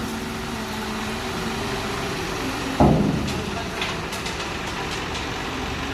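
Tipper truck's diesel engine running steadily, with one loud heavy thump about three seconds in.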